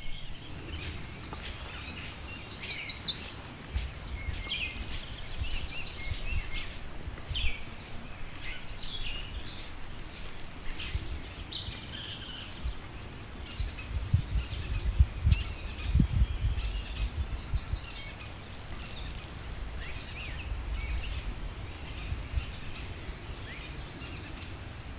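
Outdoor ambience of several birds chirping and singing in short, varied calls throughout, over a low, uneven rumble that swells about two-thirds of the way in.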